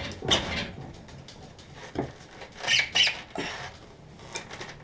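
Irregular metal clinks and scrapes of hand tools working on a car's rear wheel and brake, with several short knocks spread through the stretch and a denser cluster around the middle.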